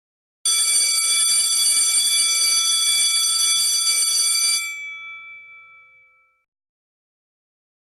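Electric alarm bell ringing continuously, its clapper rattling fast against the gong, for about four seconds, then stopping and ringing out over a second or so.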